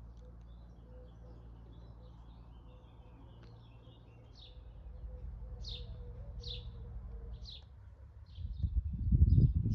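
A small bird chirping over and over, short chirps about once a second, over a low steady hum. Near the end, a loud low rumble.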